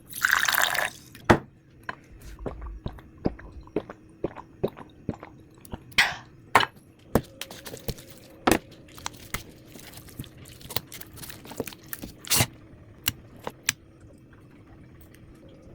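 Food preparation sounds: a string of irregular clicks and knocks of kitchen utensils, with a short rush of noise at the start and another about six seconds in.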